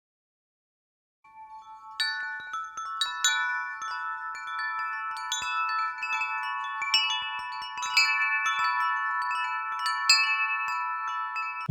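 Wind chimes ringing: after about a second of near silence, many overlapping high ringing tones are struck at irregular moments, jangling on continuously and cutting off suddenly at the end.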